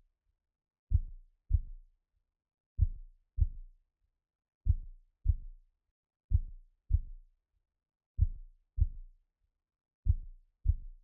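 Heartbeat sound effect: soft, low double thumps (lub-dub), six of them, one about every two seconds, with silence between.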